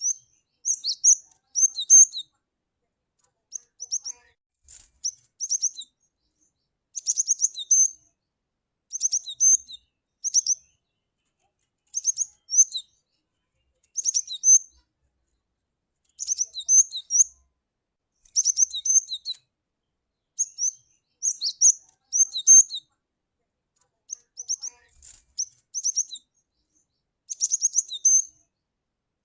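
Cinereous tit (glatik batu) calling: short phrases of quick, high chirping notes, repeated every one to two seconds with dead silence between them.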